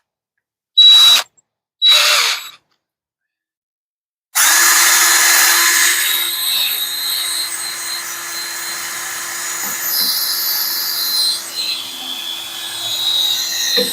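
Electric drill run in two short bursts, then drilling steadily from about four seconds in, boring out a plugged grease hole in a metal loader part.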